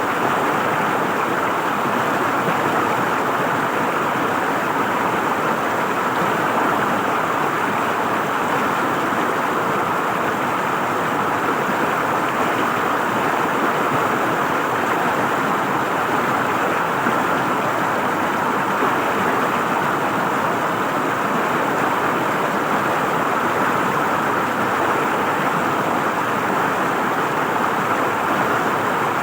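River water flowing and gurgling over stones, a steady, even rush with no breaks.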